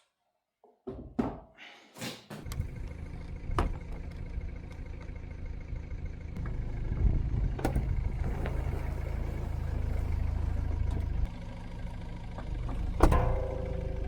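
A few sharp knocks, then a tractor engine starts running with a steady low rumble, with scattered clicks over it and a louder knock near the end.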